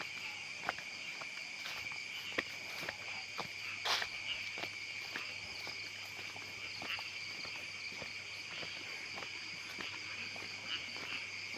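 Steady night chorus of crickets and other insects, one shrill band of chirping over a higher one. Scattered light clicks and scuffs of footsteps on a path, the loudest about four seconds in.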